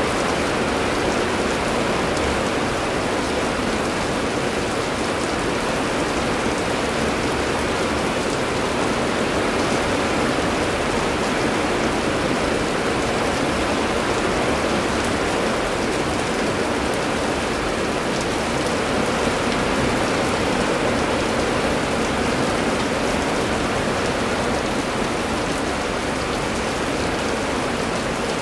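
Steady heavy rain falling and pattering on surfaces, an even hiss without breaks or thunder.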